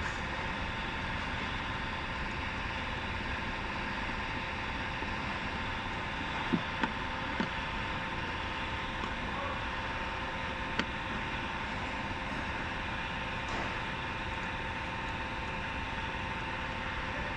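Steady mechanical hum with a faint constant whine, broken by a few light clicks about six to eleven seconds in.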